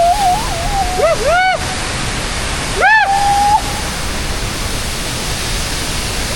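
Waterfall rushing steadily, with a few short, high excited vocal whoops in the first four seconds.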